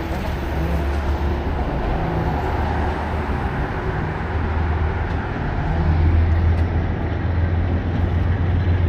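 Steady low rumble of a moving train, growing a little louder from about six seconds in.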